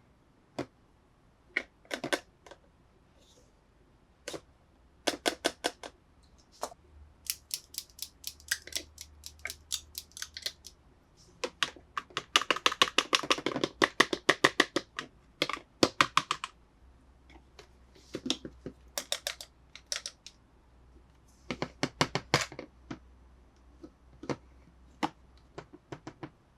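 Hard plastic toy pieces being handled, clicking and tapping in quick runs of sharp clicks with short pauses between them; the clicking is densest a little before the middle.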